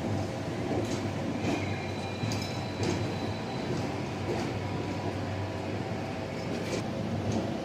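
Moving passenger train: a steady rumble with scattered clicks from the wheels over the rails, and a faint high squeal between about one and a half and four seconds in.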